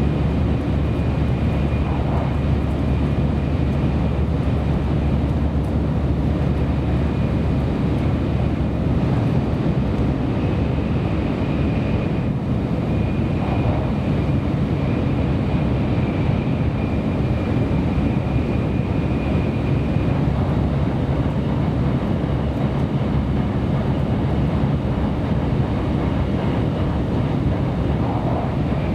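Kyushu Shinkansen train running at speed, heard from inside a passenger car: a steady rumble of wheels, track and air. A faint high whine comes and goes over it.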